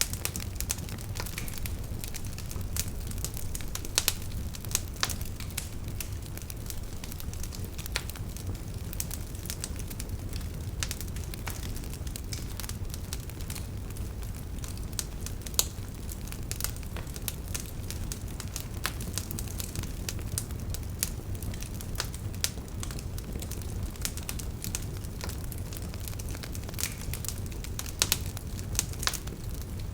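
Fireplace fire burning steadily: a low, even rumble of flame under constant irregular crackling, with a few sharper, louder pops scattered through.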